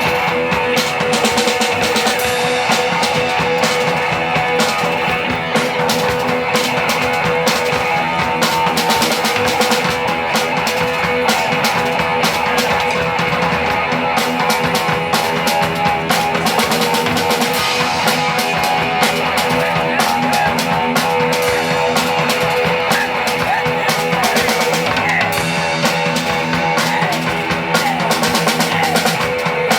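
A live punk rock band playing: distorted electric guitar and a steadily pounding drum kit, loud and continuous.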